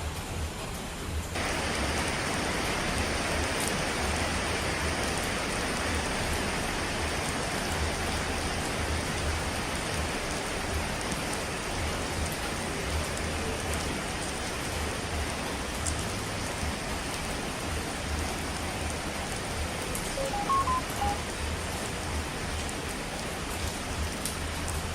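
Steady heavy rain, an even rushing hiss that steps up louder and brighter about a second in. A few faint short blips sound near the end.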